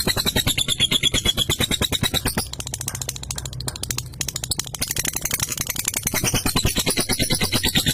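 Lovebird chattering in a long, rapid 'ngekek' trill of fast repeated sharp notes over a wavering high tone. It is softer for about two seconds in the middle, then picks up again.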